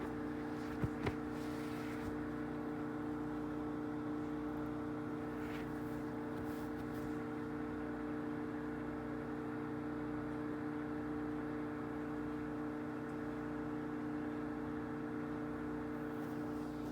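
Microwave oven running with a steady hum while it heats food. Two short clicks sound about a second in.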